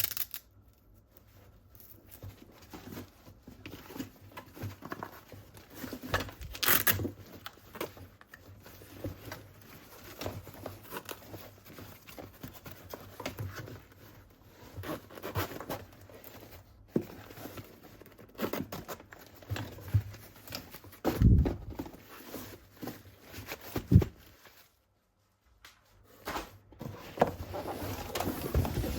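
Plastic toy weapons and their packaging being handled close up: irregular rustling, tearing and crinkling, with clicks and knocks of plastic parts. Everything drops out briefly near the end.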